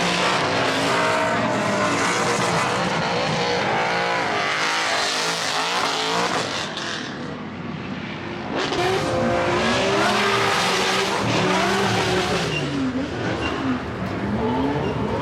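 Racing car engine on track, revs repeatedly climbing and falling through gears and corners. The sound dips for a moment about seven seconds in, then picks up again.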